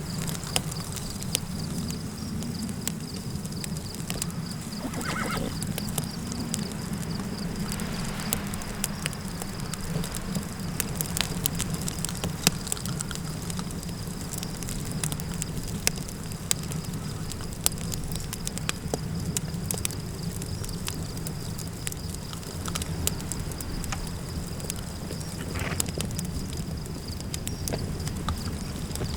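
Campfire crackling, with scattered sharp pops over a steady low wind rumble. A brief louder sound rises out of it twice, about five seconds in and near the end.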